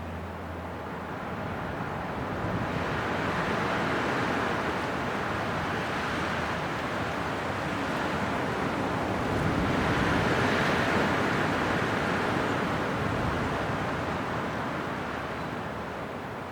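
Winter wind blowing in gusts, swelling about three seconds in and again around ten seconds, then easing near the end.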